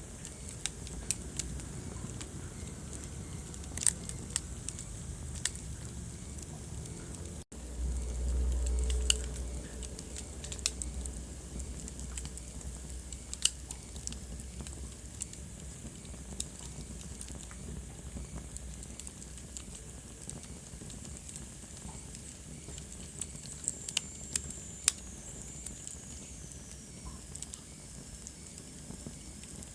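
Wood fire crackling, with sharp pops scattered irregularly over a steady low rumble of the flames. About seven seconds in the sound cuts out for an instant and comes back with a louder low rumble for a couple of seconds. Near the end a faint high whistle glides downward.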